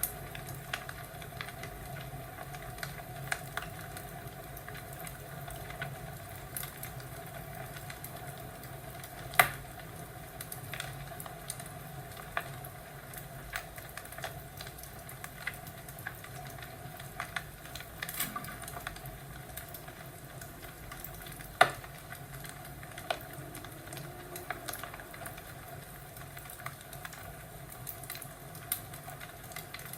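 Fireplace crackling: a steady low hiss with scattered sharp pops and snaps, two of them much louder, about a third and about two thirds of the way through.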